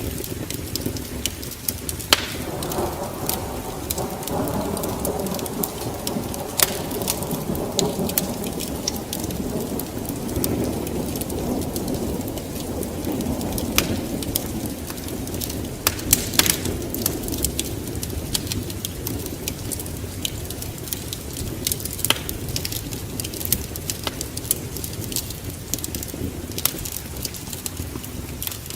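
Steady rain with a long roll of thunder that swells about two seconds in and rumbles away over the next ten seconds or so. Sharp crackles of a wood fire pop throughout.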